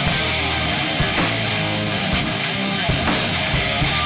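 Live rock band playing an instrumental passage: a drum kit with bass drum keeping a steady beat under distorted electric guitar and bass.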